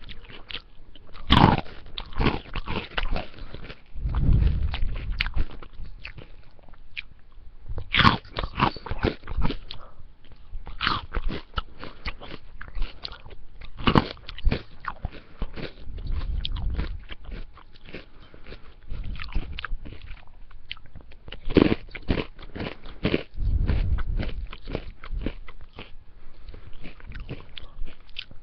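Close-miked chewing and biting of spaghetti and salad, with sharp crunching bites at irregular intervals several seconds apart between quieter chewing.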